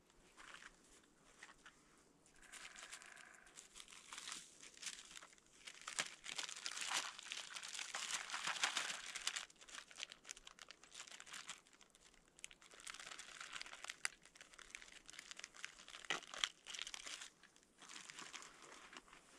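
Crinkling and rustling of handled material in irregular bursts, loudest around the middle, with a brief faint tone about three seconds in.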